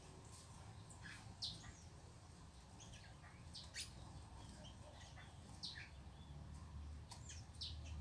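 Small birds at a backyard feeding table giving short, high chirps, scattered irregularly about once a second. The chirps are faint, over a low steady rumble.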